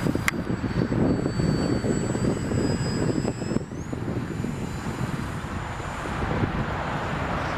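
Electric motor of a radio-controlled VisionAire plane whining thinly, its pitch gliding up about three and a half seconds in as the throttle opens, under heavy wind buffeting the microphone. A short click near the start.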